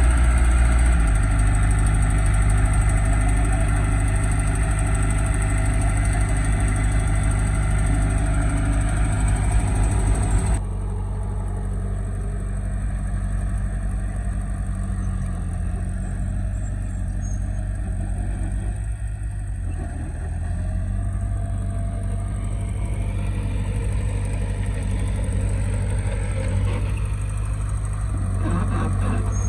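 An engine running steadily at a low, even pitch. About ten seconds in, the sound cuts abruptly to a quieter, slightly different engine note, which then runs on steadily.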